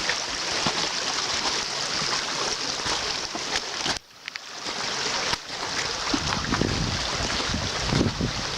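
Swollen, fast-flowing creek rushing in spate: a steady, loud wash of water noise. It cuts out briefly about halfway through and returns with wind buffeting the microphone.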